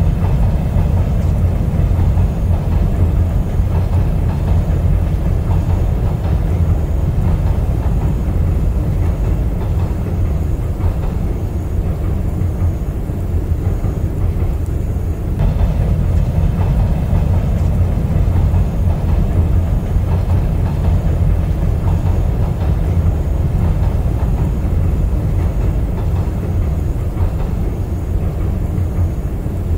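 A moving train's steady low rumble, with no clear rhythm of wheel clicks.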